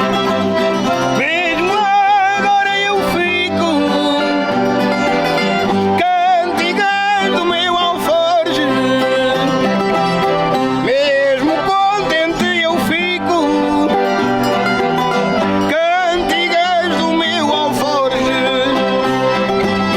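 Folk song performance: voices singing with vibrato, accompanied by plucked string instruments and an accordion.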